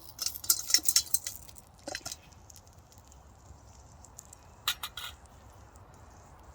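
Small clinks and rattles of cooking gear being handled: a quick cluster of light clicks in the first second, then a couple of single clicks about two seconds in and again near five seconds.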